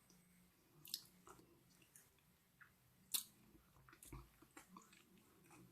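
Faint, wet mouth sounds of a person biting into and chewing a soft, ripe persimmon, a few short smacks spread over the quiet, the loudest about three seconds in.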